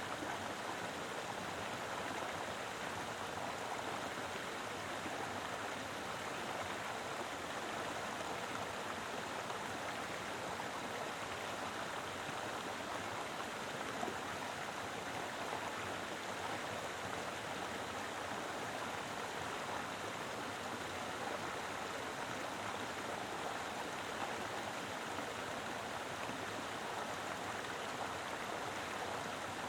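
Mountain river flowing steadily over rocks, a full, even rush of water.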